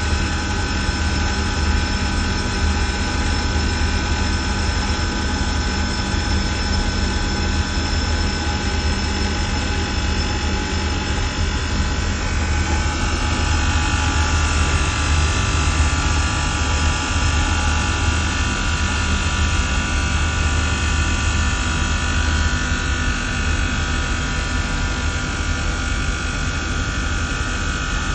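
HVAC plant machinery of a chiller and fan-coil system running steadily: a strong low hum under several steady whining tones, the pitch mix shifting about halfway through.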